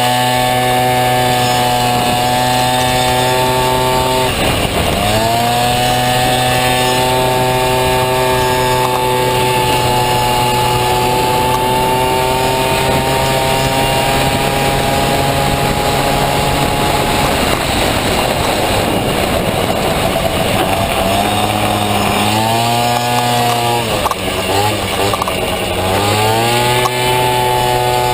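Honda Dio two-stroke scooter engine in a Honda Motocompo running at high revs. It dips briefly about four seconds in, eases off for several seconds past the middle, then revs back up twice near the end.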